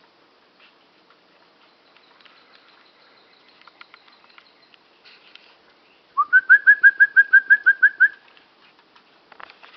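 A songbird singing a rapid trill of about a dozen short upslurred notes over two seconds, starting about six seconds in, after a stretch of faint scattered ticks.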